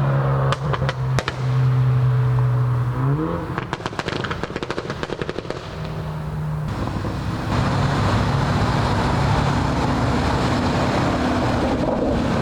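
Performance car engine revving as it pulls away, its pitch climbing about three seconds in, followed by a rapid run of exhaust crackles and pops. Another engine then runs steadily.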